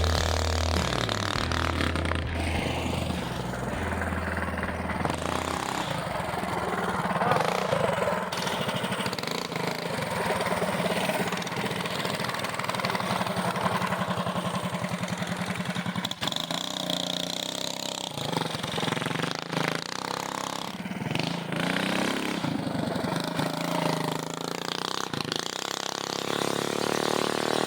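Modified Coleman mini bikes' small single-cylinder gasoline engines running.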